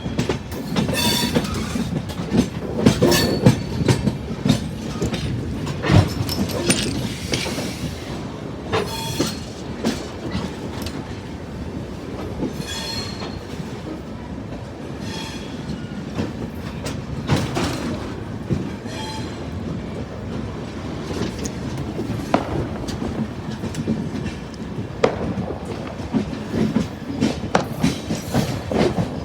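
Rajdhani Express coaches rolling in on the rails, the wheels clattering over rail joints in repeated clicks and knocks, with short squeals from the wheels, over a steady rumble.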